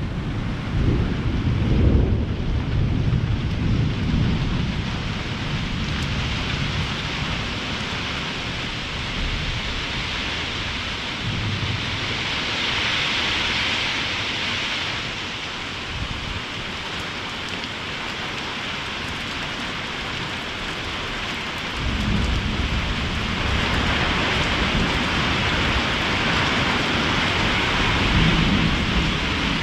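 Heavy thunderstorm rain pouring steadily on the roof, with thunder rumbling low at the start and again in a longer roll from about two-thirds of the way through.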